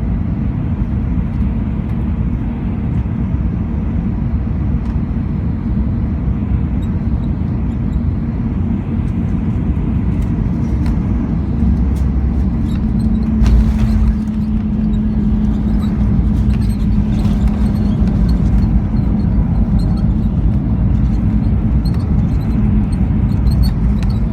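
Cabin noise inside an Airbus A319-114 on the ground after landing: its CFM56 engines running at low power over a steady rumble. A low hum grows stronger a little past halfway.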